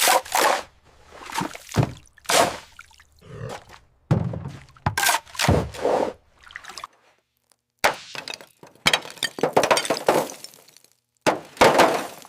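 Irregular series of about a dozen heavy thunks and crunching breaks, each under a second, from corroded car body metal being knocked and broken.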